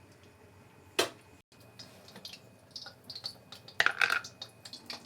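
Kitchen handling sounds: one sharp click about a second in, then irregular taps and clinks of utensils and dishes, loudest just before the last second.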